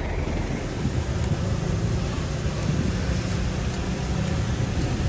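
Diesel engine of heavy earthmoving machinery running steadily, its sound mostly low-pitched.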